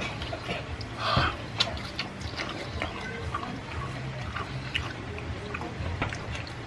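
Close-up wet mouth sounds of chewing and lip-smacking: a run of small irregular clicks, with a louder smack about a second in.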